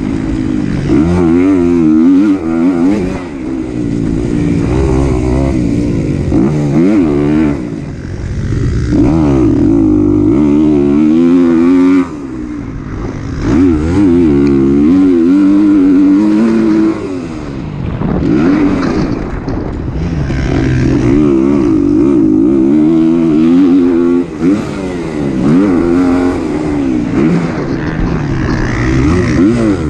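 Kawasaki KX250 four-stroke single-cylinder motocross engine under race riding, its pitch repeatedly climbing and falling as the throttle is opened and chopped through the gears, with a few brief drops where it is shut off.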